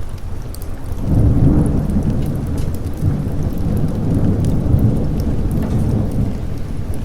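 Thunder rumbling over steady rain: the low rumble swells up about a second in and rolls on, with rain hissing and drops ticking throughout.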